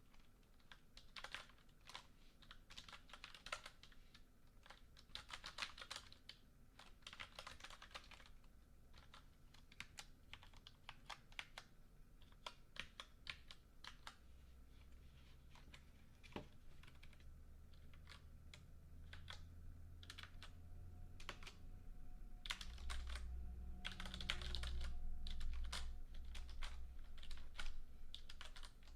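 Computer keyboard being typed on: quick runs of key clicks broken by short pauses. A low rumble underneath grows louder through the second half.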